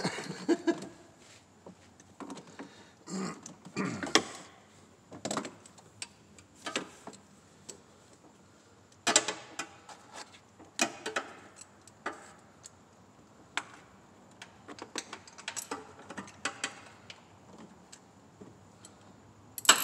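Scattered metallic clicks and clinks of hand tools being handled, likely ratchet, sockets and extensions, in irregular clusters with short pauses between them.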